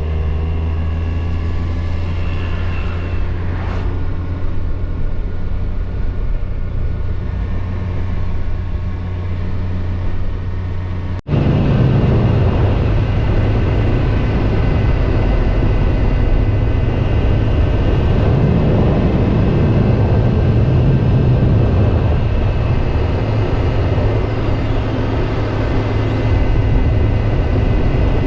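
Kawasaki Versys motorcycle engine running steadily on the road, with wind and road noise. About eleven seconds in the sound changes abruptly to a louder, lower running.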